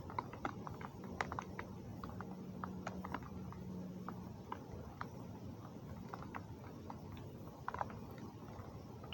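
Rain falling, with irregular drops and drips tapping on a hard surface over a low steady hiss of rainfall. A faint low hum runs from about one second in to about four seconds in.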